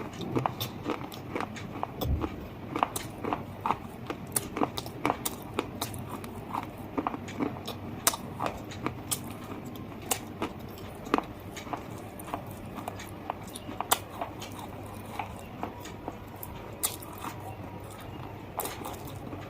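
Close-up crunching and chewing of something hard and brittle in the mouth: a steady run of sharp, irregular crunches.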